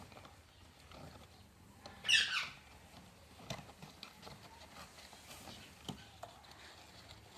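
A parrot gives one short, harsh squawk about two seconds in, falling in pitch, among scattered light clicks and taps.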